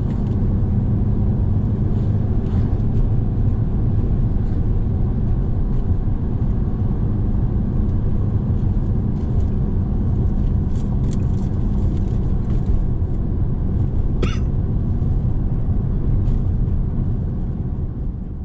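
A car engine running steadily with a low rumble, fading out near the end.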